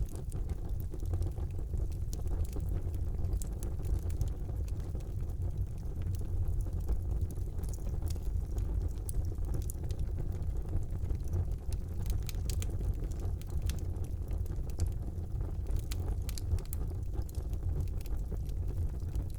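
Wood fire burning in a fireplace: a steady low rumble of the flames with scattered sharp crackles and pops, a few small clusters of them around the middle and later on.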